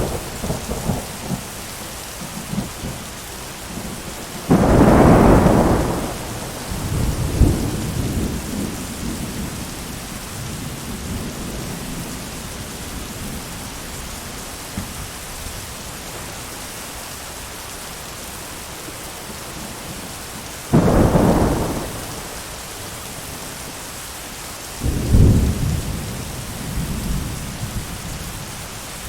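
Steady rain falling, with three sudden thunder claps, about five seconds in, about twenty-one seconds in and about twenty-five seconds in, each followed by a low rumble that dies away over a few seconds.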